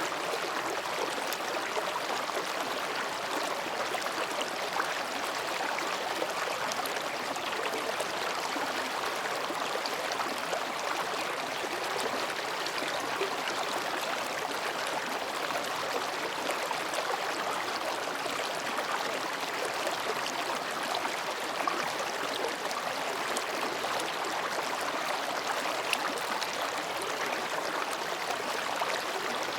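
Mountain stream babbling steadily as it flows between rocks, an even rushing and gurgling of water.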